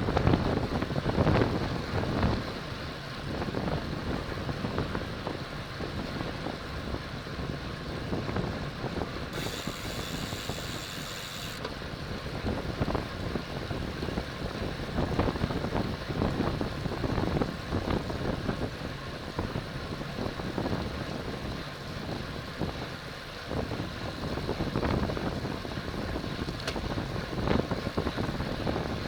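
Wind rushing over the microphone of a camera on a road bike ridden at race speed, gusting unevenly. About ten seconds in, a high buzzing lasts about two seconds.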